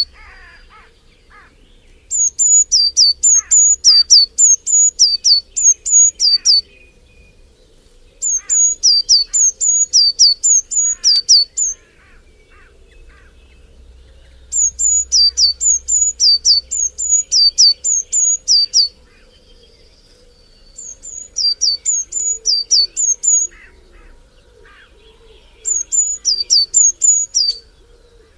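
A songbird singing bouts of repeated high notes that drop in pitch, about two a second, each bout lasting a few seconds with short pauses between. Other birds call faintly beneath it.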